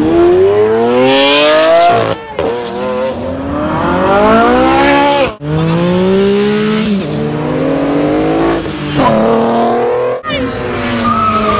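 Car engines accelerating hard, rising in pitch again and again, with drops in between as the engines shift up. Several short bursts are broken by abrupt cuts.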